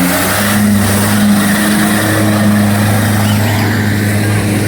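Off-road 4x4's engine running hard at steady high revs.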